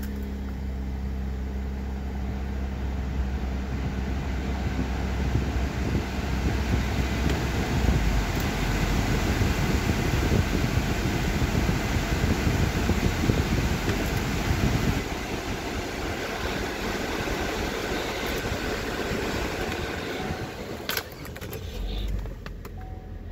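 Cadillac SUV's engine idling just after starting, heard from inside the cabin; its low hum drops about eight seconds in. A broad rushing noise swells in the middle, and a few clicks come near the end.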